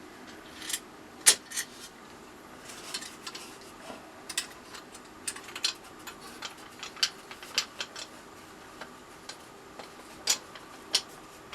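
Irregular light clicks and taps of small wooden parts and tools being handled and set in place on a workbench, the sharpest click about a second in.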